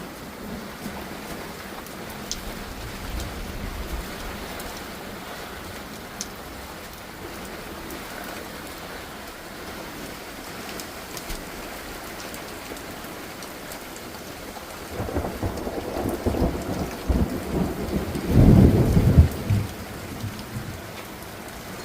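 Heavy monsoon rain falling steadily, with a low rolling rumble of thunder that builds about two-thirds of the way in and is loudest a few seconds later.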